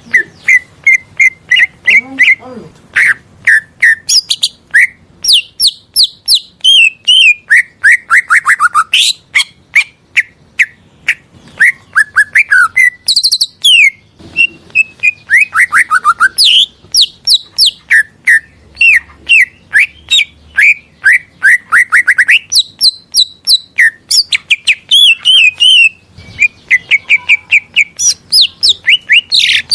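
Cucak ijo (green leafbird) singing a long, varied song of rapid chirps, trills and sliding whistles, with a few brief pauses.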